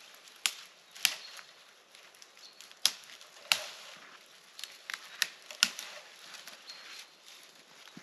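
A series of irregular sharp knocks and cracks, about nine of them spread unevenly, the loudest a little under halfway and just past halfway through.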